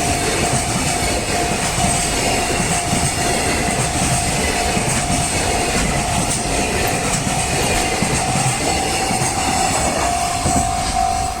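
Train running over a railway level crossing, wheels clattering on the rails, with the crossing's warning bell ringing steadily; the bell's repeated dings stand out near the end as the train noise eases.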